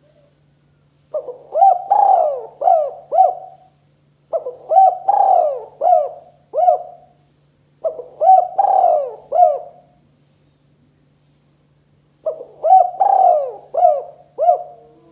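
Spotted dove cooing: four phrases of several quick, arching coos each, with short pauses between them.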